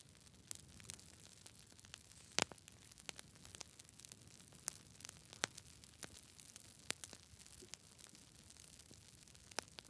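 Campfire crackling: scattered sharp pops and snaps at irregular intervals over a faint steady hiss, the loudest pop about two and a half seconds in.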